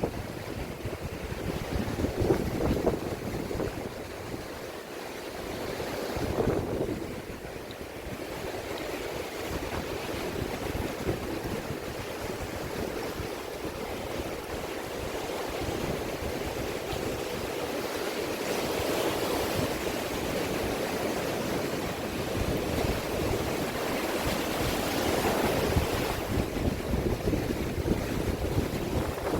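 Sea waves washing ashore, swelling and easing every few seconds, with wind buffeting the microphone in a low rumble.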